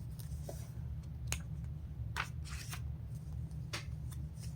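Pages of a paper catalog being handled and turned: a series of short, sharp paper rustles and flicks over a steady low electrical hum.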